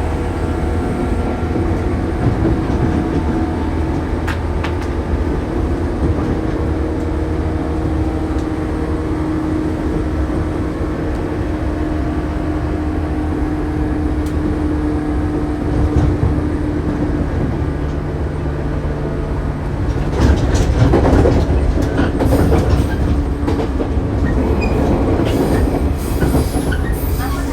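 Shinano Railway 115 series electric train running, heard from inside the car: a steady hum from its DC traction motors and gears over the rumble of wheels on rail. From about 20 seconds in it gets louder, with a clatter of wheels over rail joints.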